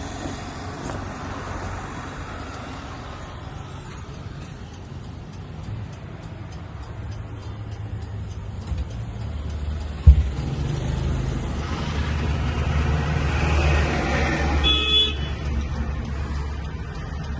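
A motor vehicle's engine running with a low rumble, a single sharp knock about ten seconds in, and the engine growing louder from about twelve seconds on.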